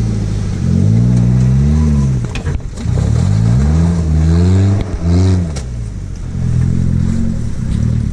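Suzuki Jimny's engine revving under load as it climbs a rocky rut: the revs rise and drop back about three times, with short lifts off the throttle between, then hold steadier near the end.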